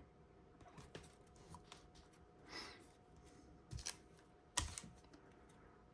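Faint, scattered taps and clicks of trading cards being handled and set down on a table, with a brief soft rustle about halfway through and one sharper tap a little later.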